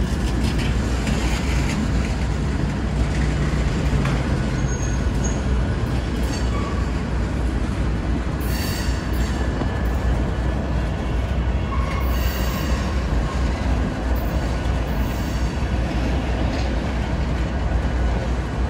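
Freight train tank cars rolling slowly past at close range, their steel wheels rumbling steadily on the rails. High-pitched wheel squeals come and go briefly in the middle.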